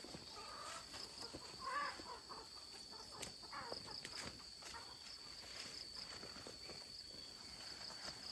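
Insects, crickets, trilling steadily at a high pitch, with a few short animal or bird calls in the first two seconds and scattered light knocks and footsteps.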